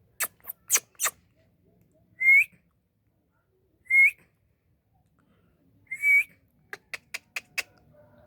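Indian ringneck parrot whistling: three loud short whistles, each rising at the end, about two seconds apart. Quick runs of short sharp clicking calls come near the start and near the end.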